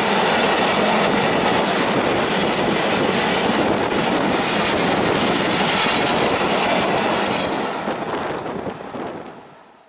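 Freight train of cement hopper wagons rolling past, its wheels running over the rails in a steady, loud rush. The noise fades away over the last two seconds as the end of the train passes.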